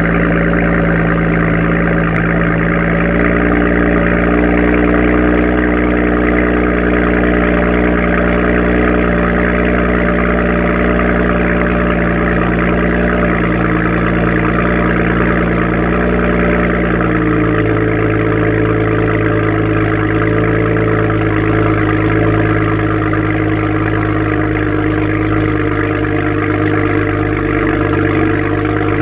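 BMW 335i N54 twin-turbo inline-six idling through an exhaust with a Wagner downpipe and a Performance rear silencer, shortly after a cold start. The idle holds steady, then drops to a lower speed about 17 seconds in as the fast cold-start idle settles.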